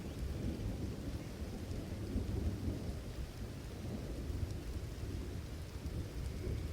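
Thunderstorm: steady rain falling with a continuous low rumble of thunder underneath.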